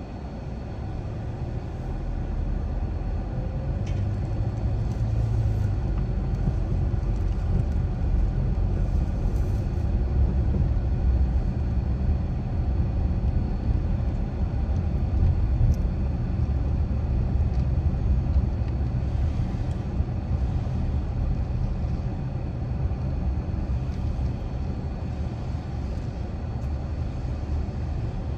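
Car driving along, a steady low rumble of road and engine noise that grows louder over the first couple of seconds, then holds steady.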